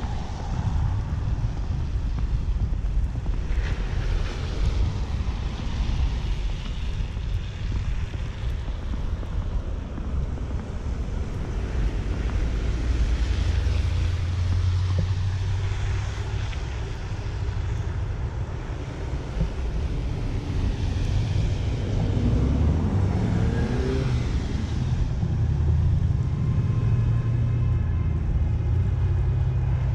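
City street traffic: vehicles pass one after another, their tyre hiss swelling and fading several times over a constant low rumble. An engine note glides in pitch a little past the middle as one vehicle goes by.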